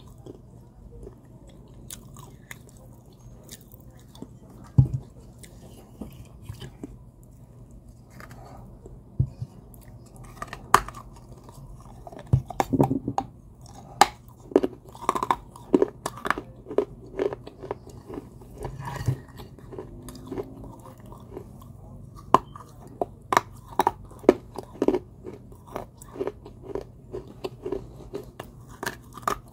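Close-up crunching and chewing of pieces of baked terracotta clay pot coated in wet clay paste. Bites are sparse at first, then about ten seconds in they turn into steady crunches of about two a second.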